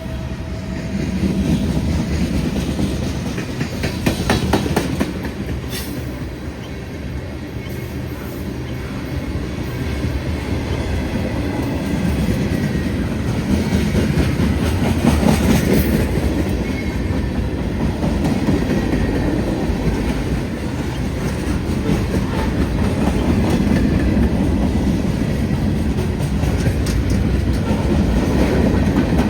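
CSX freight train rolling past close by: a steady rumble of the cars with the wheels clacking over the rail joints.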